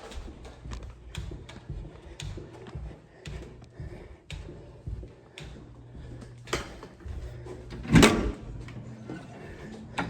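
Irregular knocks and clicks of someone moving about and handling things, with one loud bang about eight seconds in.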